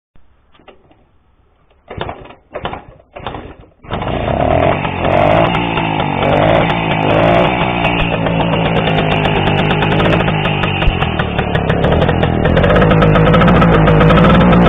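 Engine of a 1959 K-58 motorcycle, a 125 cc two-stroke single: a few short coughs, then it catches about four seconds in and runs steadily, rising a little near the end.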